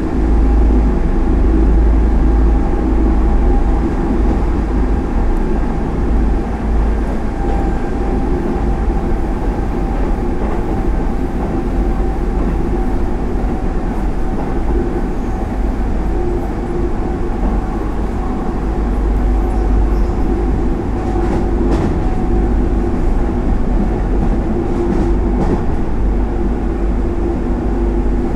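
Hanshin Railway express train running at speed, heard from inside the carriage: a steady low rumble of wheels on rail, with a few light clicks in the second half.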